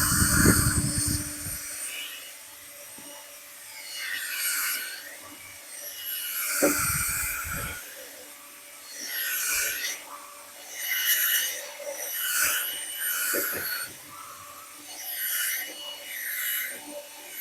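Drill-spun dryer vent cleaning brush scrubbing inside the vent duct: a rasping scrape that comes and goes every second or two. A low rumble comes twice, near the start and about seven seconds in.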